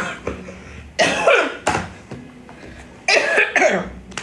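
A person's voice in three short outbursts without clear words, about a second and a half apart.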